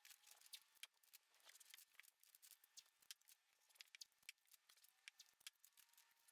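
Near silence with faint, irregular small clicks and ticks, several a second.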